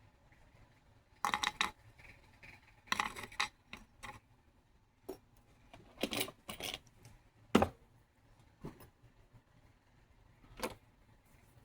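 Small hard objects, likely metal tools or pieces, clinking and clattering as they are handled and set down. The sound comes in a few short bursts, with a sharper single knock about seven and a half seconds in.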